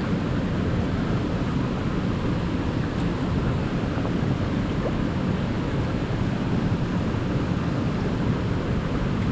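Steady rushing of a mountain stream, an even unbroken wash of water noise weighted toward the low end.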